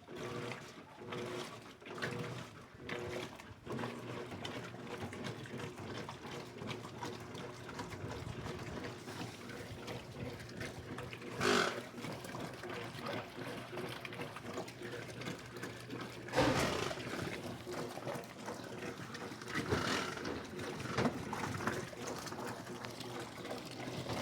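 Electrolux LED14 washing machine running its wash cycle: a steady motor hum with water sloshing, pulsing in short strokes for the first few seconds and then even, with three louder swishes of water.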